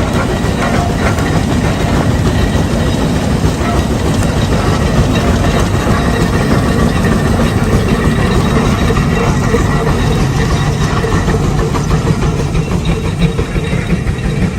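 Large vintage engine running steadily with a fast, even mechanical clatter.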